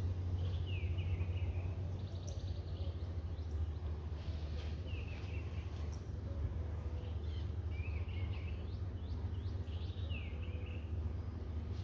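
A songbird repeating a short, falling call phrase every few seconds, over a steady low rumble.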